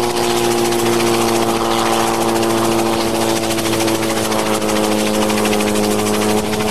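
An engine running steadily: a constant drone of several steady tones with a fine rapid chatter above it.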